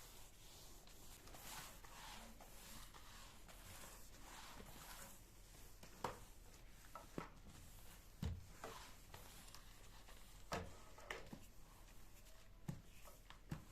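Quiet household handling sounds: soft rustling at first, then a scattering of light knocks and clicks, as of objects being picked up and set down.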